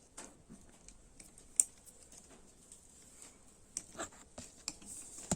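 Small metal clicks and scrapes of a tool prying a circlip out of a motorcycle piston's wrist-pin bore, irregular, with one sharp click about a second and a half in and a cluster near the end.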